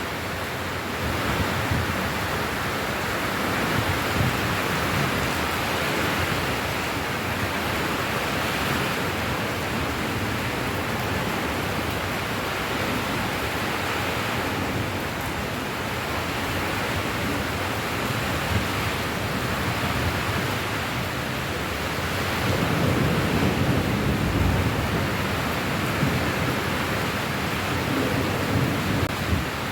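Steady, dense rain. A low rumble swells up about two-thirds of the way through.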